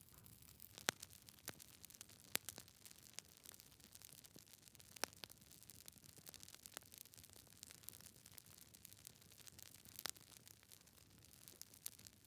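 Wood fire in a fireplace crackling: faint, irregular pops and snaps from burning logs over a soft hiss, with a few sharper snaps scattered through.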